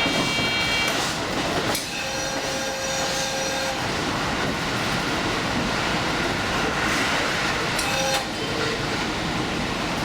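Limited express train running at speed, with a steady rumble and rail noise. Brief steady tones ring out over it: a high one in the first second, a longer lower one from about two seconds in, and a short one about eight seconds in.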